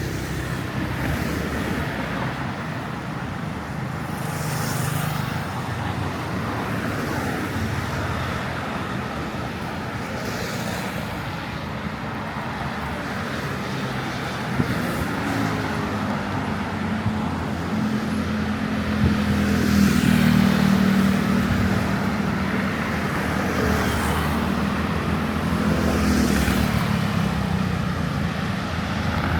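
City street traffic: a steady wash of cars going by, with one vehicle's engine growing louder from about halfway through, at its loudest a little later, then fading near the end.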